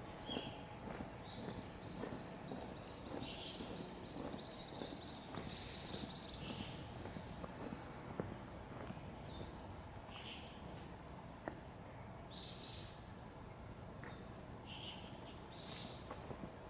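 Small birds chirping in short high notes, with a quick run of repeated notes a few seconds in, over a steady low background hum and soft footsteps.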